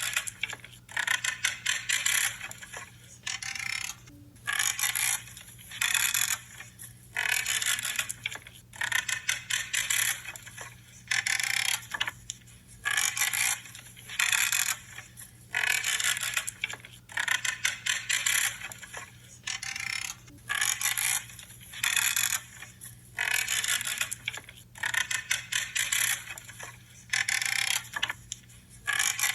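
Woody branches being cut one after another, each cut a short crisp creaking crunch, about one every second or so, with a faint steady hum underneath.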